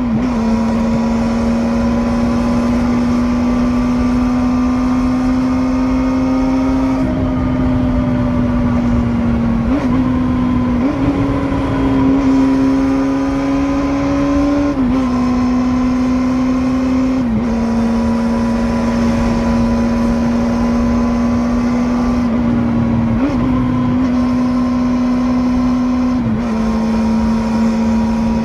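Kawasaki Balius (first generation) 250 cc water-cooled inline-four engine running at high revs with a steady, high, even note. The pitch dips or rises briefly about half a dozen times as the revs change, then settles again.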